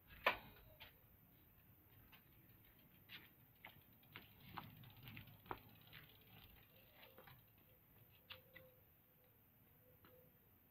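Near silence: room tone with scattered faint clicks and taps, one sharper click just at the start.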